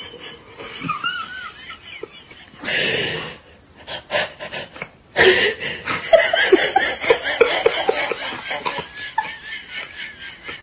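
A person laughing in short bursts, several a second, which get louder about halfway through, after a brief burst of noise near the start.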